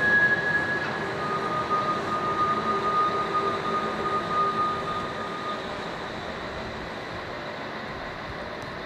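A train rumbling away into the distance, with a steady high whine that drops to a lower pitch about a second in and stops about halfway through, the whole sound slowly dying away.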